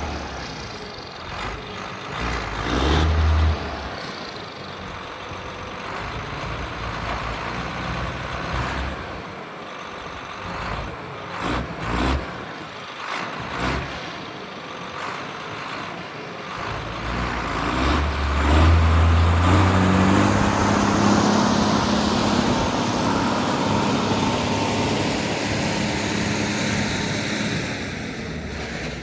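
1982 John Deere 8450 tractor's six-cylinder diesel engine running as the tractor is driven through its gears, with a few sharp clunks midway. About two-thirds of the way through, the engine revs up and stays at higher revs.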